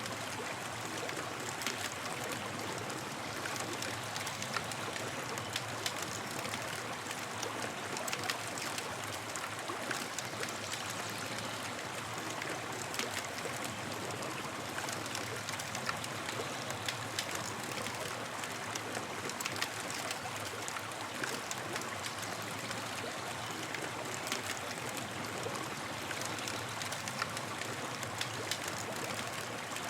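Wood campfire burning, a steady hiss with frequent small crackles and pops.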